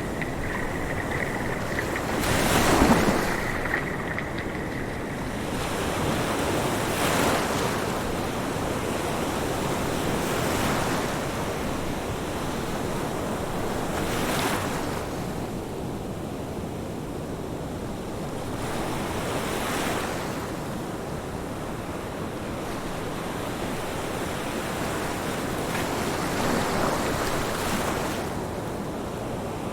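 Ocean waves breaking on a shore, each wave swelling and washing out every four to five seconds.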